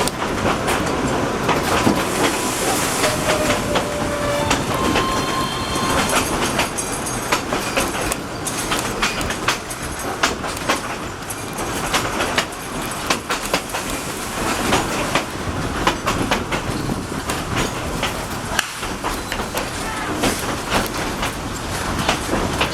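Tweetsie Railroad's narrow-gauge steam train running along the track, its wheels clacking over the rail joints in a steady noisy rumble. Thin wheel squeals ring out now and then in the first several seconds.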